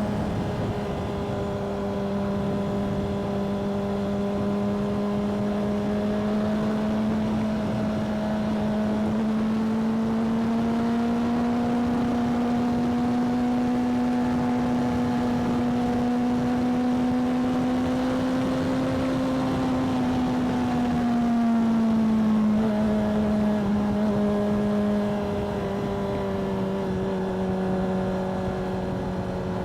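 Motorcycle engine running at a steady cruise under wind and road rush, its note climbing slowly over the first two-thirds and then dropping back about two-thirds of the way in as the bike eases off.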